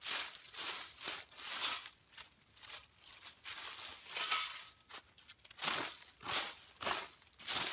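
Dry leaves and twigs crunching in a steady series of about one to two crunches a second, with one sharper crack about four seconds in.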